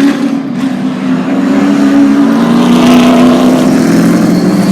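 Super Truck race trucks' engines running at speed around a short oval, loud, the engine pitch dropping a couple of times as trucks go by.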